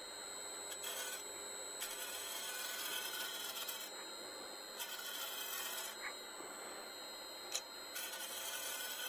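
Wood lathe spinning a small wooden bowl while a scraper works the inside, a rasping cut in several passes of one to two seconds each, under a steady high tone.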